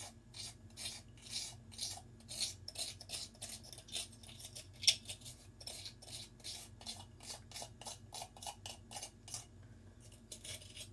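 A spoon scraping repeatedly at a nearly empty sugar container, scooping out the last of the sugar in short strokes about two to three a second, with one sharper click near the middle; the strokes stop shortly before the end.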